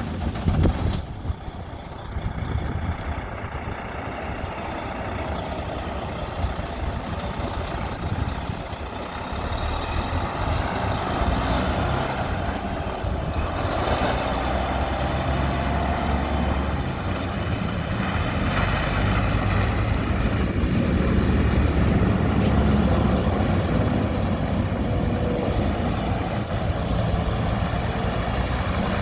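A 2004 Volvo 630 semi truck's diesel engine running steadily, with a brief louder sound about a second in.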